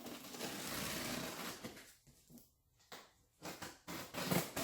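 Cardboard shipping box being opened by hand: a long tearing rip for about two seconds, then a pause and several short scrapes and rustles of cardboard and packing.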